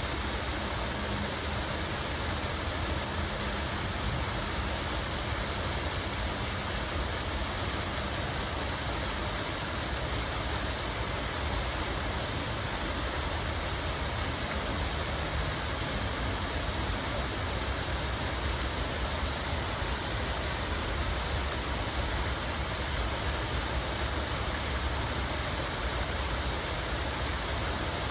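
Water running steadily, an unbroken rushing hiss with a low rumble underneath.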